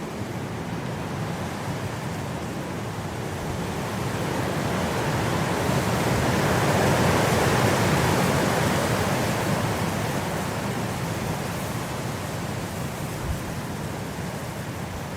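Blizzard wind blowing, a steady rushing that swells into a strong gust about halfway through and eases off again.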